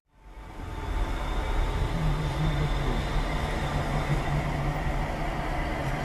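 Steady vehicle noise, a car running in heavy rain, with a low hum that comes in about two seconds in.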